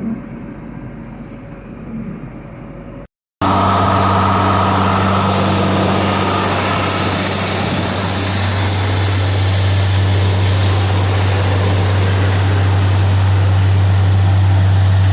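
Harvest machinery running steadily, a loud, even engine drone with a deep hum. It comes in abruptly after a brief silence about three seconds in; before that the machine sound is quieter and muffled.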